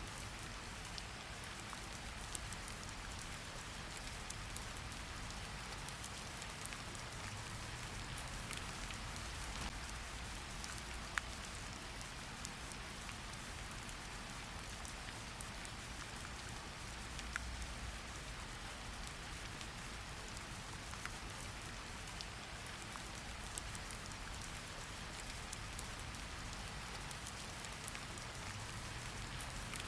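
Steady rain falling on a surface, a soft even hiss with scattered individual drop ticks and a faint low rumble underneath; one sharper drop tick stands out about 11 seconds in.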